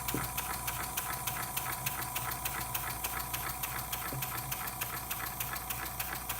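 EIWI model beam steam engine running on compressed air, its valve gear and exhaust making a rapid, even ticking, over the steady hum of the air compressor feeding it.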